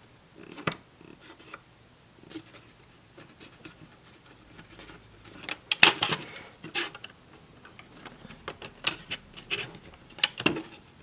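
Scattered clicks, taps and light rustling as screen-protector installation kit parts are picked up and fitted together by hand, with the sharpest knocks about six seconds in and again near the end.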